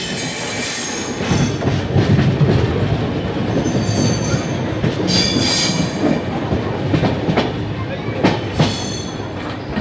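Passenger express train running along the track as it comes into a station, its coach wheels clattering over rail joints and points. A brief high-pitched wheel squeal comes about four seconds in and again around five to six seconds in.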